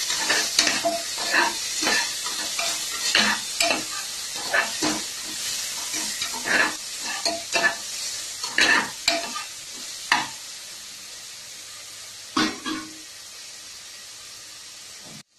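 Chopped onion and green chillies sizzling in hot oil in an aluminium pressure cooker while a spatula stirs them, scraping and knocking against the pot bottom in frequent short strokes. The stirring stops after about ten seconds, with one more pair of strokes a couple of seconds later, leaving only the steady sizzle, which cuts off just before the end.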